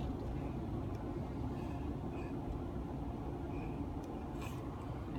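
Steady low vehicle rumble, with a few faint short high tones.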